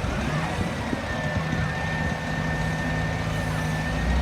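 Heavy truck engine running steadily, with a steady high-pitched whine held over it.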